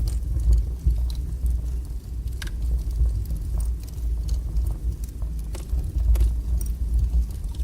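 Fire burning strongly in a fireplace: a steady low rumble with scattered sharp crackles and pops.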